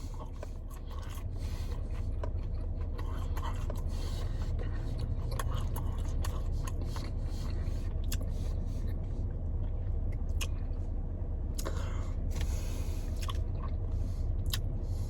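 A person biting into and chewing crispy breaded chicken nuggets, heard as many small irregular crunches, over a steady low hum.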